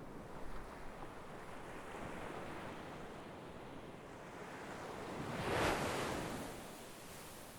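Sea waves washing on the shore, a steady surf hiss with one wave breaking loudest about two thirds of the way through and then draining away.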